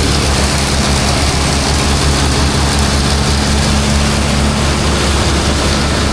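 Tractor engine running steadily at working speed, driving a PTO silage blower, with a constant rushing noise over the engine's low drone.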